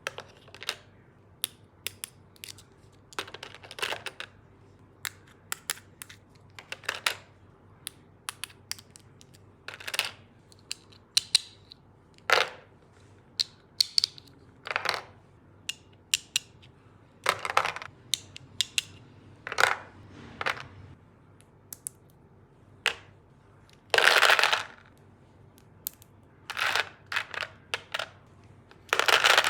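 Plastic toy tool-kit pieces being handled: irregular clicks and taps, with a few longer scraping or rustling sounds, the loudest about two-thirds of the way through and at the very end.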